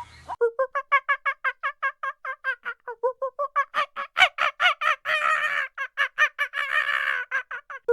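Bird calls: a fast, continuous run of short repeated call notes, about six a second, with two harsher, denser stretches about five and seven seconds in.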